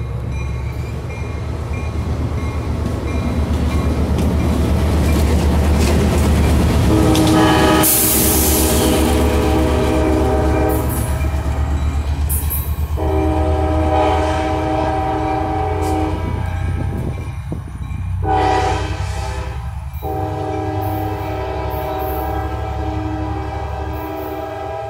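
Diesel commuter train pulling out, its locomotive engine rumbling as it passes and draws away. The train's chime horn sounds the grade-crossing signal: two long blasts, a short one, then a long one held to the end.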